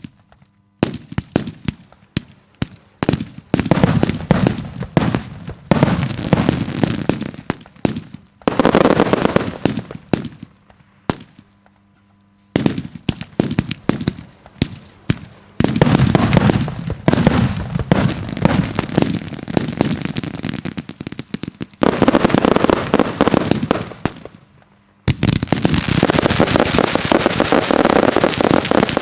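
Daytime fireworks display: firework batteries firing rapid volleys of shots and bangs in salvos with short lulls between them, turning about 25 seconds in into a dense, unbroken crackling barrage.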